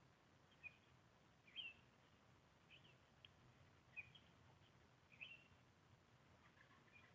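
Faint short bird chirps, five or so about a second apart, over a quiet steady low hum.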